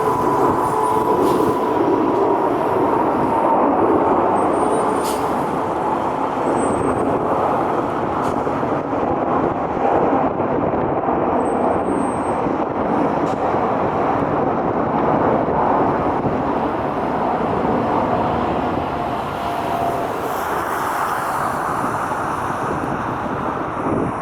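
Steady loud rumble of a passing vehicle, with a faint steady whine at the start.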